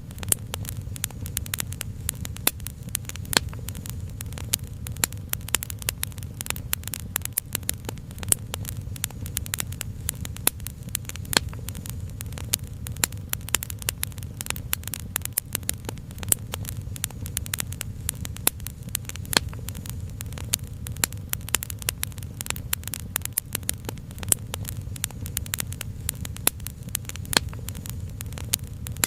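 Wood fire crackling, with dense, irregular pops and snaps over a steady low rumble.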